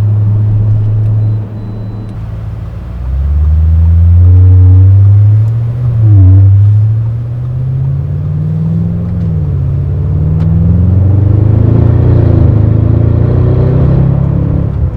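Audi RS6's twin-turbo V8 and Valvetronic catback exhaust accelerating. The engine note rises in pitch, drops briefly about six seconds in, and climbs again.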